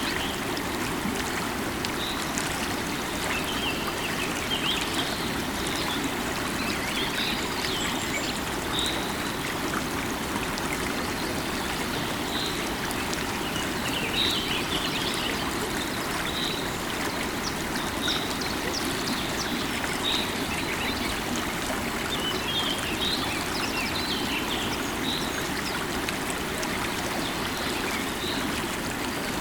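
A river of running water flowing steadily, with birds giving short high chirps every second or two.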